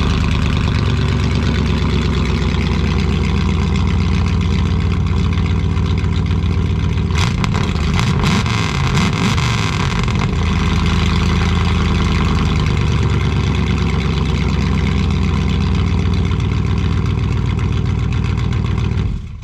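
5.9L V8 with straight-piped exhaust manifolds and a 2-inch exhaust, running loud and steady just after a cold start, with a brief rise and fall in revs about eight seconds in.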